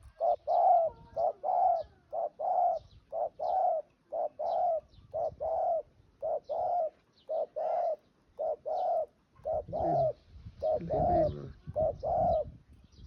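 Spotted dove cooing: repeated low phrases of two or three coo notes, over and over. A rougher low noise joins in under the coos for the last few seconds.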